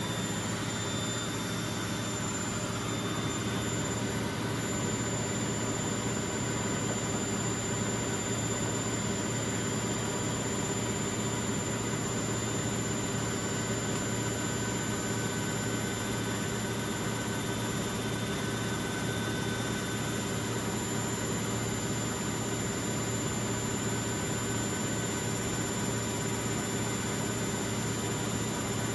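Bauknecht WA Aquaton 1400 front-loading washing machine spinning at high speed: a steady motor whine with a rushing drum noise, holding an even pitch and level throughout.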